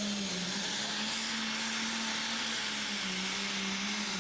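Turbocharged diesel engine of a pulling truck running hard at high revs during a pull: a steady engine tone with small shifts in pitch under a loud hiss.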